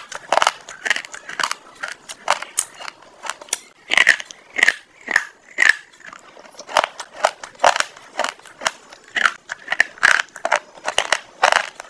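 Close-up crunchy chewing and biting of food: a dense, irregular run of sharp crunches and crackles, with a few wetter mouth clicks about four to six seconds in.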